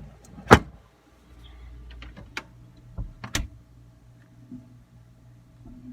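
Several sharp knocks and clicks, one loud one about half a second in and a cluster around three seconds, over a steady low hum.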